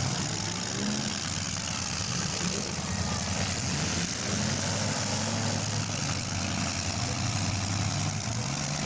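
Demolition derby cars' engines running and revving unevenly, their pitch wavering up and down over a steady hiss.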